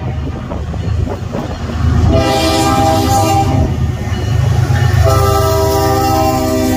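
Diesel freight locomotive's air horn sounding over the low rumble of the passing train: a blast of about a second starting about two seconds in, then a long blast starting about five seconds in.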